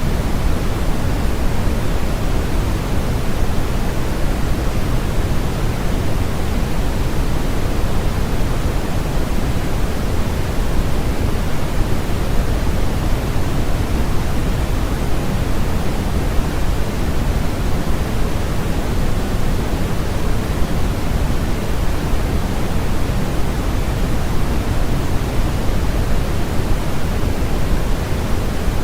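Steady, unchanging synthetic noise of a sleep-aid noise track, its energy heaviest in the low end and thinning toward the highs, so it sounds deeper than flat white noise.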